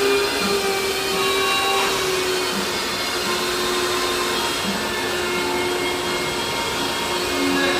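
Vacuum cleaner running steadily while it cleans a billiard table, its motor hum dipping slightly in pitch near the end.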